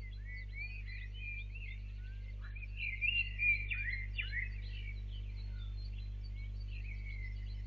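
Birds singing at dawn: a busy run of short, quick chirps and whistled phrases, thickest a few seconds in, over a steady low electrical hum.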